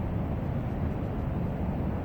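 Steady low rumble of wind buffeting the microphone, without any clear engine note or other distinct event.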